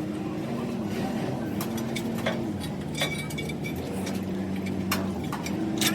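Scattered metallic clinks and taps over a steady low mechanical hum in a metalworking shop, with a sharper strike about three seconds in and another near the end.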